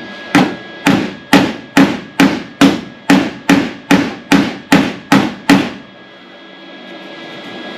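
Hammer tapping sheet steel on a truck's replacement cab corner, about a dozen even strikes at roughly two a second that stop near the end. The metal is being gently stretched so its curve matches the old panel.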